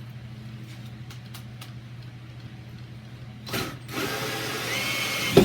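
A power drill fitted with a hole saw runs for about a second and a half near the end with a slightly rising whine, ending in one sharp knock, while the stuck wood plug is being worked out of the hole saw. Before that there are only faint handling sounds over a low hum.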